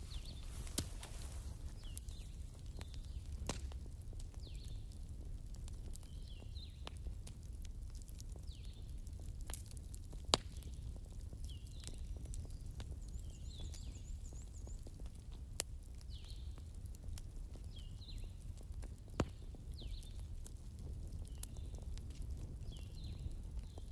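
Wood bonfire crackling, with about five sharp pops, the loudest about ten seconds in, over a low steady rumble. Faint short high chirps repeat every second or two.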